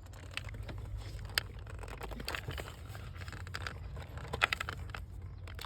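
A few scattered small plastic clicks and handling noises as the electrical connector is unclipped from a MAP sensor and the sensor is worked out of the intake manifold, over a low steady background rumble.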